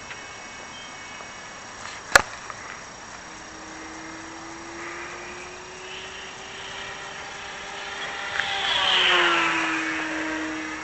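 Electric motor and 9x9 propeller of a Multiplex Blizzard RC model plane whining in flight. It grows louder as the plane approaches, then swells and drops in pitch as it passes close at about nine seconds. A sharp click about two seconds in.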